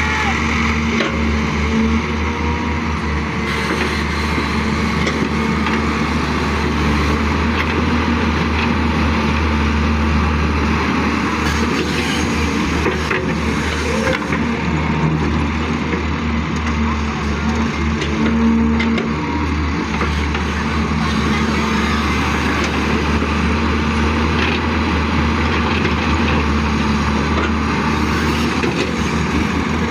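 Excavator's diesel engine running steadily under work, a constant low drone with a steady hum.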